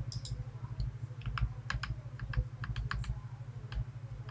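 Light metallic clicks of small Medeco biaxial lock pins and drivers being handled and set down, a quick irregular run of about a dozen clicks in the middle, over a steady low electrical hum.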